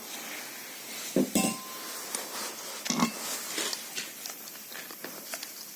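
Metal parts and tools clinking and clanking as they are handled, with a few louder knocks about a second in and again near the three-second mark.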